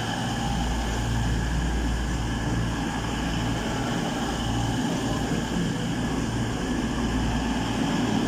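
Diesel multiple unit engines idling while standing at a station platform: a steady low rumble that swells faintly and slowly.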